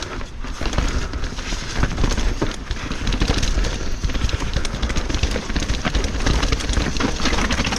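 A mountain bike rolling over rough, rocky trail, heard from a camera on the rider: the tyres and the rattling frame and chain make a dense run of small knocks and clatters over a low rumble.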